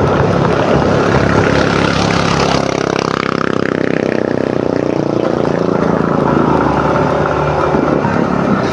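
Motor scooter engine running during a ride, with wind rushing over the microphone; about three seconds in the engine note glides down in pitch.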